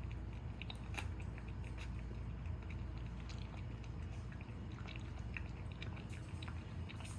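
Small, irregular clicks and ticks scattered over a steady low hum.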